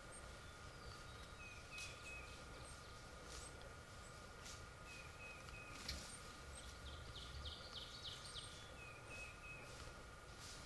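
Quiet woods with faint, scattered songbird chirps and a brief rapid trill about seven seconds in, over low background noise.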